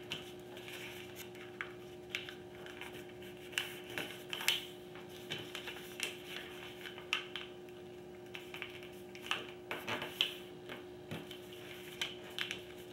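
A sheet of paper being folded and creased by hand: scattered crinkles, rubs and light taps, over a steady hum.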